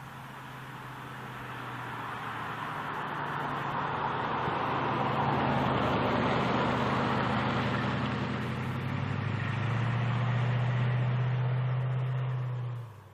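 A car engine running with a steady low hum under a rushing noise, growing louder over the first five seconds or so, and cut off abruptly near the end.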